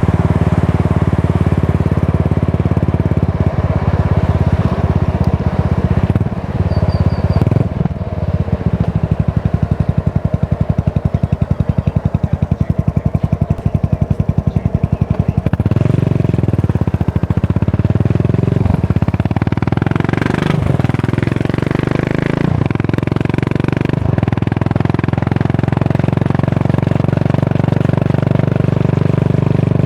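Yamaha SR400's single-cylinder engine running under way through a Goods tapered-cone slip-on muffler, a loud, steady beat of exhaust pulses. The engine speed drops for a while about a third of the way in, then rises again in two revs around the middle.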